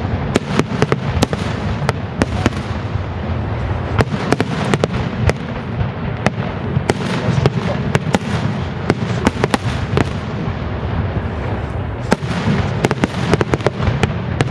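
Fireworks display: many sharp bangs and cracks in quick succession, several a second, over a continuous low rumble of shell bursts.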